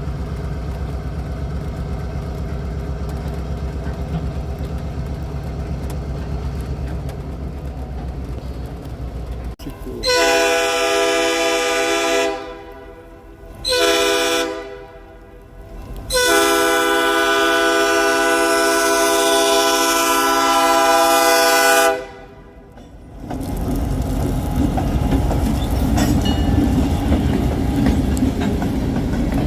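A train sounds three loud chord-like signal blasts: a long one, a short one, then the longest. Before them a low steady rumble runs for about ten seconds, and after them a low noisy rumble follows.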